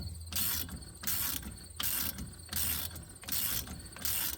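Hand ratchet wrench clicking in a steady rhythm of strokes, about two a second, as it works a bolt on the truck's front hub loose.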